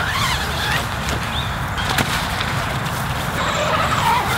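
Birds calling in short rising and falling calls over a steady low rumble, with one sharp click about two seconds in.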